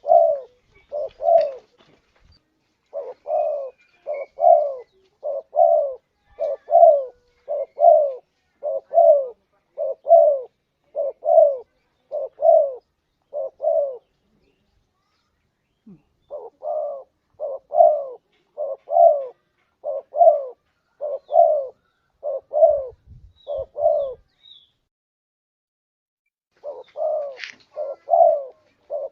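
Spotted dove (tekukur) cooing: short low coos repeated about twice a second in long runs, broken by two pauses of a few seconds.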